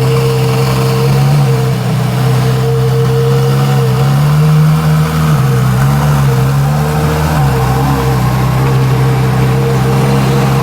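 Ferrari LaFerrari's V12 idling steadily, its engine speed rising slightly and wavering a few times around the middle.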